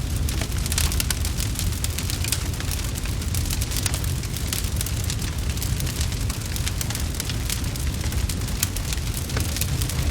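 Crackling wood fire in a fireplace, with a dense run of small pops and snaps over a steady low rumble.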